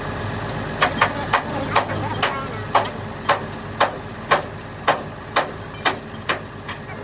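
Hammer striking sheet metal about twice a second, a dozen or so sharp blows, over a steady low hum: panel beating on a truck's body.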